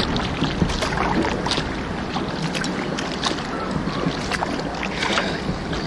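Water splashing and lapping around a kayak, a steady wash broken by many small splashes and drips, with wind buffeting the microphone.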